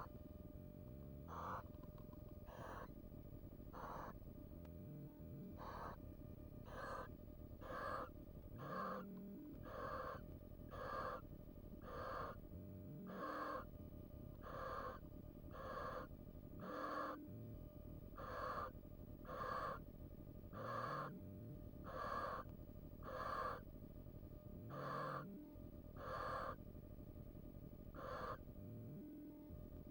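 Barn owl giving a long series of short, rasping, hiss-like calls, roughly one a second. The calls grow louder partway through and stop shortly before the end.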